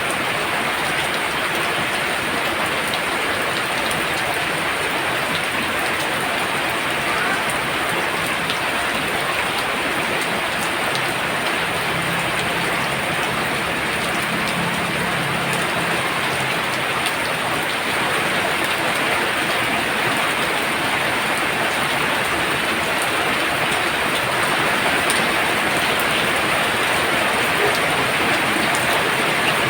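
Heavy rain pouring steadily, a dense hiss of drops striking surfaces, growing slightly louder in the last few seconds.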